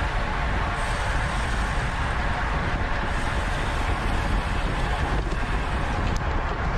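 Steady wind rush and buffeting on the microphone of a camera on a road bike moving at racing speed.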